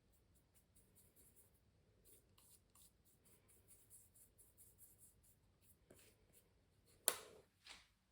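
Faint pencil strokes scratching on canvas, many quick short strokes in a row. Two sharp knocks near the end, the first the loudest.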